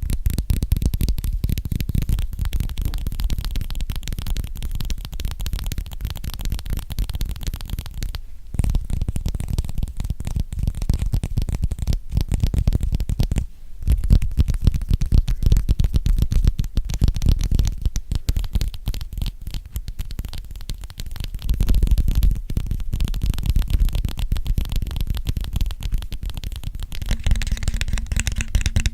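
Fast tapping by fingers and nails on an object held close to the microphone: a dense run of quick taps with a heavy low thud, pausing briefly twice.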